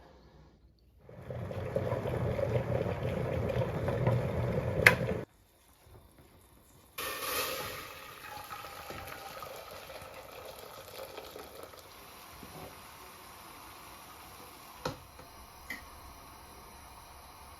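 Running or bubbling water in a kitchen, loud for a few seconds and then cut off suddenly. It is followed by a quieter, steady watery hiss with a couple of light clicks.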